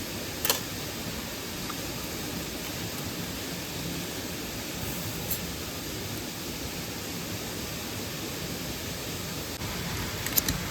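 Steady rush of a mountain stream and waterfall, with a few short clicks about half a second in, past the middle and near the end.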